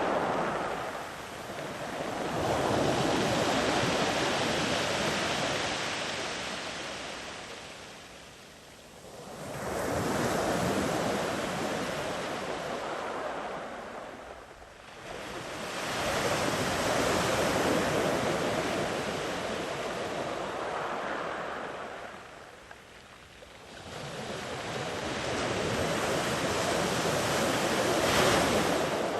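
Sea waves surging up a beach and drawing back, the surf noise rising and falling in four slow swells, each cresting loudly and then fading almost away.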